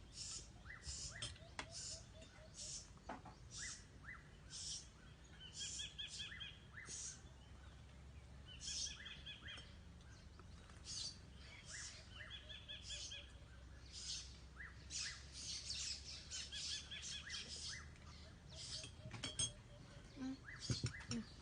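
Birds chirping and calling: many short, high chirps throughout, with a few rapid trills.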